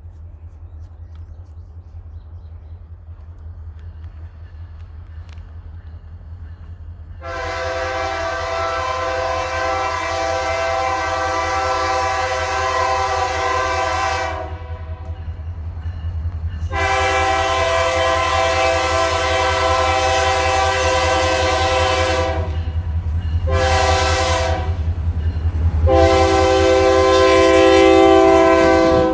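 Diesel locomotive horn sounding the grade-crossing signal: two long blasts, one short and a final long one, over the low rumble of the approaching engine, which grows louder near the end.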